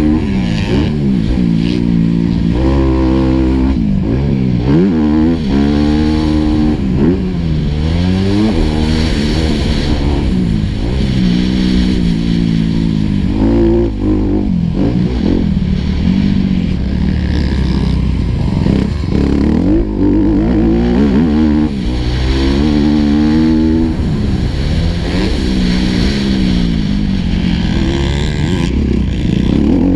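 Four-stroke motocross bike engine heard from on the bike during a lap, its pitch repeatedly climbing and dropping every second or two as it is revved hard, shifted and backed off.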